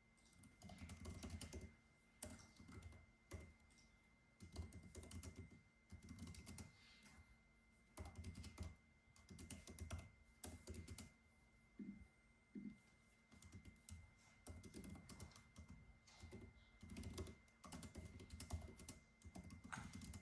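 Typing on a computer keyboard in short runs of rapid key clicks, broken by brief pauses.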